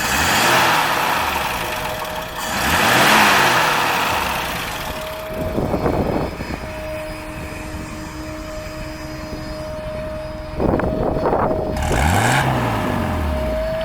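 A 1946 Plymouth Special Deluxe with its flathead inline-six engine driving past, the engine and road noise swelling and fading. It passes once about three seconds in and again near the end, each time with the engine pitch rising and then falling.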